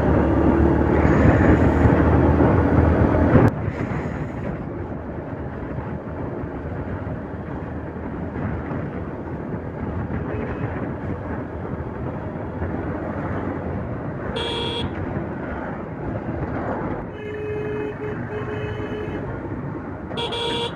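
Road and wind noise while riding a motorcycle through highway traffic. A louder passing vehicle cuts off about three and a half seconds in. Vehicle horns honk briefly about two thirds of the way through and again near the end.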